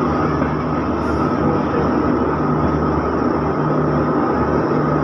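Steady rumble and rail noise of the 22452 Chandigarh–Bandra Terminus Superfast Express rolling along the platform as it pulls into the station, heard from aboard.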